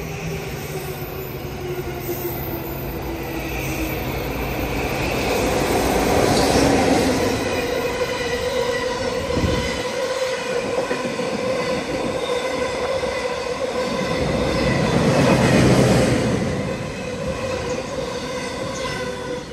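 Freight train of Taki 43000 oil tank wagons, hauled by a JR EF65 electric locomotive, passing through a station at speed. The wheels run on the rails with a steady ringing tone, swelling loudest about six and again about fifteen seconds in.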